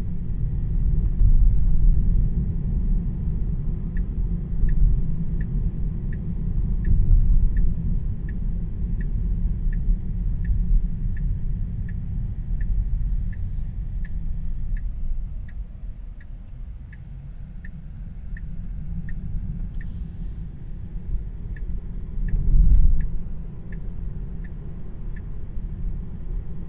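Steady low road and tyre rumble heard inside the cabin of a 2026 Tesla Model 3 electric car on the move. From about four seconds in, a regular ticking at roughly one and a half a second, typical of a turn-signal indicator, stops briefly about three quarters of the way through, then resumes.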